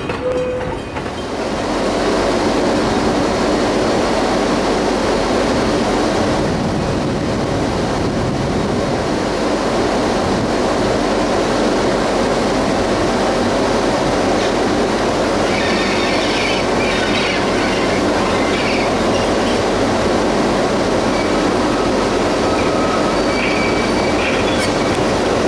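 EC 7 vintage electric locomotive and its train rolling along the track, a steady running noise throughout, with short high squeals of wheels on the curved track about two-thirds of the way in and again near the end.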